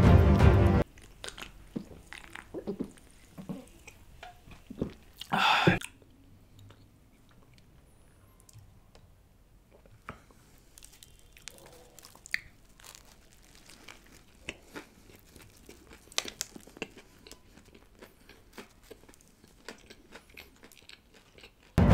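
Close-miked biting and chewing of a crispy fried-chicken burger: scattered crunches and wet mouth clicks, the loudest crunch about five and a half seconds in, then softer chewing.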